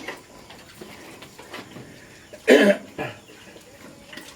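A single short cough about two and a half seconds in, over faint background noise.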